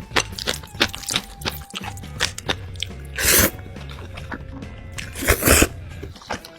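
Close-miked eating: crisp crunching and chewing with many sharp crackles, and two louder crunching bursts about three and five seconds in, over background music with a steady bass.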